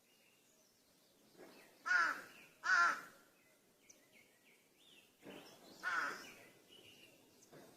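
Crows cawing: a pair of loud, harsh caws about two seconds in, another loud caw near six seconds, and fainter caws between them. Faint chirps of small birds sound in the gaps.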